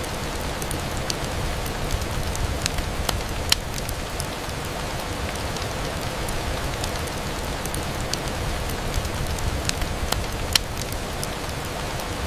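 Steady rain pattering on a window, with scattered sharp ticks and pops over it; the two loudest come about three and a half seconds in and near the end.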